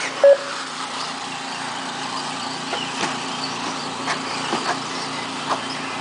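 Electric RC racing trucks running on a track: a steady low hum with a few scattered clicks and clacks, the loudest a sharp click about a third of a second in.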